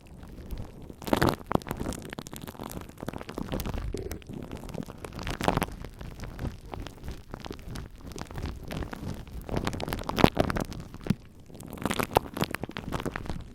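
Glue stick rubbed and dabbed directly on a microphone: a dense, irregular sticky crackling over a low handling rumble, swelling and easing every second or two, meant to imitate rain.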